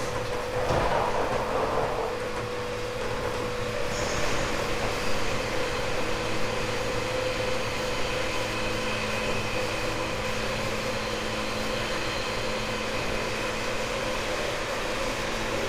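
A JR 189 series electric train heard from inside the MoHa 189 motor car, running at speed: the steady whine of its MT54 DC traction motors and gears over the rumble of wheels on rail. About a second in there is a brief surge of louder noise.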